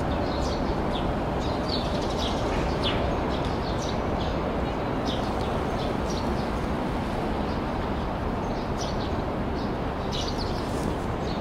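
Steady outdoor background noise with small birds chirping briefly and repeatedly over it.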